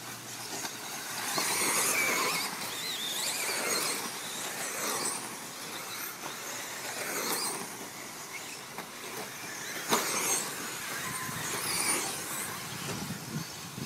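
Several 1/10-scale electric off-road RC trucks racing, their electric motors whining up and down in pitch with the throttle. There is a sharp knock about ten seconds in and another near the end.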